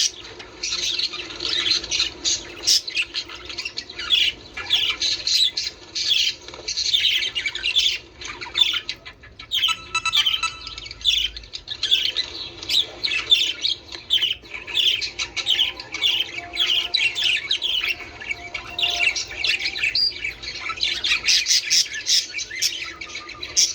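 Budgerigars chattering: a steady stream of rapid, overlapping chirps, squawks and warbles.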